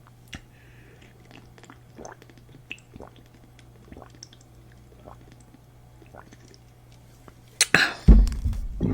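Close-up eating sounds: soft chewing and small wet mouth clicks over a faint steady hum, then a louder bite with a low thump near the end.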